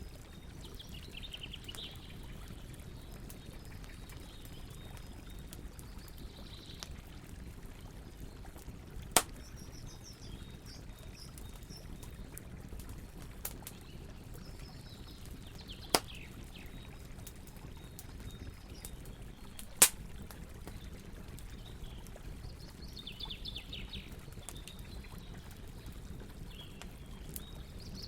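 Campfire ambience: a steady low rumble with three sharp pops from the burning wood, about seven and four seconds apart. A bird's short descending trill comes every few seconds.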